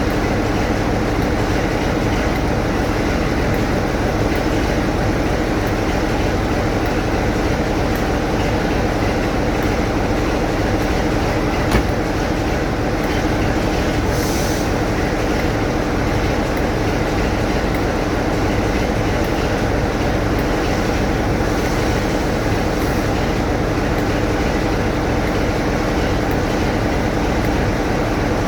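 Train noise: a constant, unchanging drone with a steady hum, broken only by a brief click about twelve seconds in.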